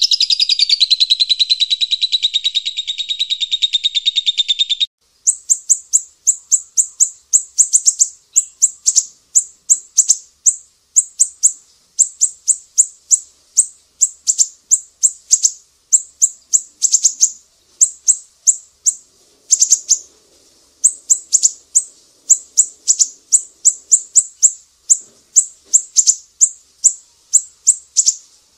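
Small songbird calls from a masteran song-tutoring recording: a fast, dense trill for about the first five seconds, then a long run of short, sharp high chirps, two or three a second, with brief pauses between bursts.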